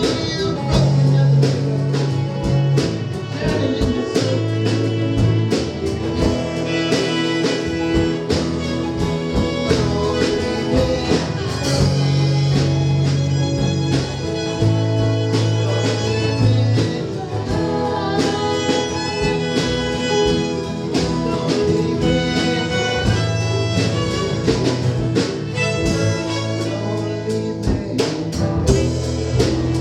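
A live band playing an instrumental passage, with a fiddle over guitar and a bass line that moves every second or two, and steady drum or percussion strikes.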